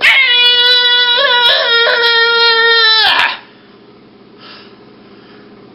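A high, wailing cry in a person's voice, held for about three seconds with slight wavers in pitch, then breaking off into quiet.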